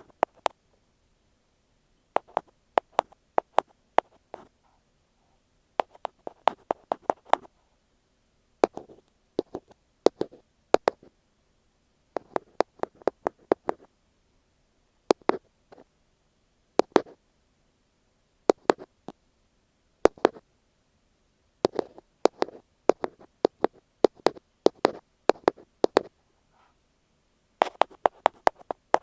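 Ear pick tapping on an earphone microphone: quick clusters of sharp, close-up taps, a handful at a time, with short pauses between clusters.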